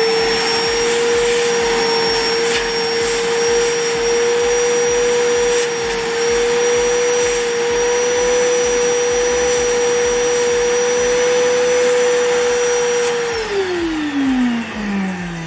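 Vacuum cleaner running with a steady high whine, sucking metal chips out of a freshly drilled and tapped grease-fitting hole in a VW Beetle's front suspension ball joint, with a few faint clicks. About 13 seconds in it is switched off and its pitch falls as the motor spins down.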